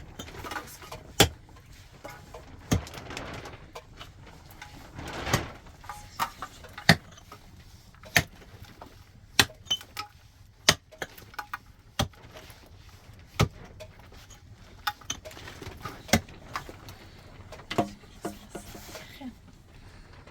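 Sharp knocks or strikes repeating at a steady pace, about one every second and a quarter.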